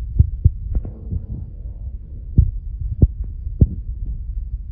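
Wind buffeting the microphone: a steady low rumble with several sharp thumps. Under it, the faint drone of the circling kitplane's AeroVolare engine.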